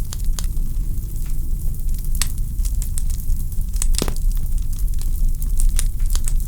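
Log fire in a fireplace crackling: a steady low rumble of flames with scattered sharp pops, one louder pop about four seconds in.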